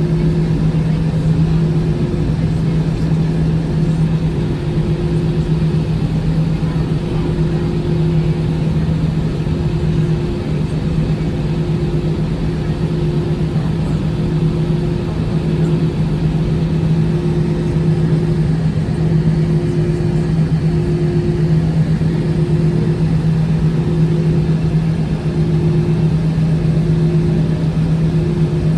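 Airbus A319 airliner noise: a steady drone with a constant low hum and a fainter tone above it, holding level without rising.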